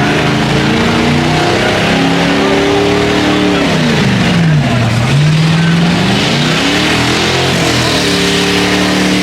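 A car's V8 engine held at high revs, its note sagging sharply down about four seconds in and climbing back up to hold high again, over a dense wash of noise.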